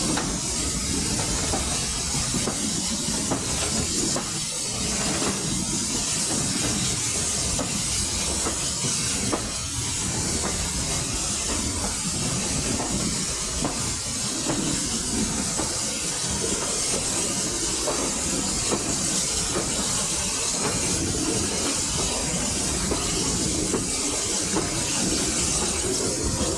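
Steady rumble and hiss of a train on the move, heard from a carriage window as the wheels run along the rails.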